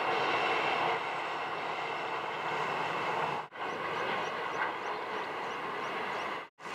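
Three NSW 81 class diesel-electric locomotives passing, their engine note fading about a second in as the last one goes by. Then comes the steady rolling of a long string of hopper wagons on the rails, with two short breaks in the sound.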